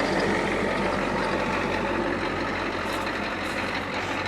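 Old work truck's engine running steadily, a constant low hum with no change in speed.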